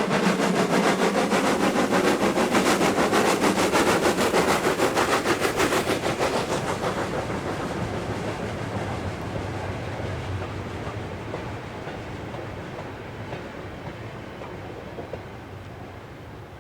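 Steam-hauled train passing at speed with a rapid, regular beat. About six seconds in the beat fades, and the running noise dies away steadily as the train recedes.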